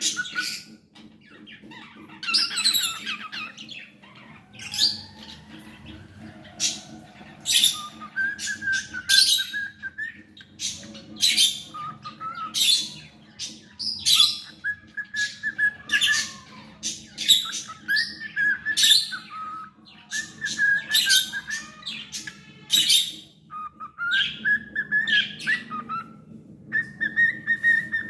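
Pet cockatiel singing: many short, sharp chirps mixed with short held whistled notes, in phrases a second or two long with brief pauses between. A faint steady low hum lies beneath.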